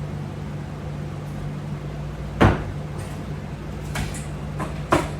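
Two sharp knocks about two and a half seconds apart, with a fainter click between them, over a steady low hum.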